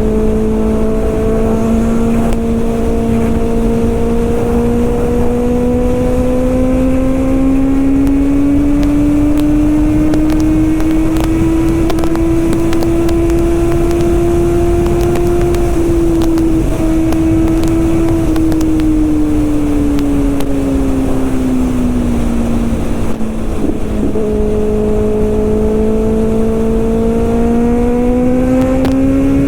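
Kawasaki ZX-6R's inline-four engine running under way, over steady wind noise. Its note climbs slowly, breaks briefly about halfway through, sinks over the next few seconds, and climbs again near the end.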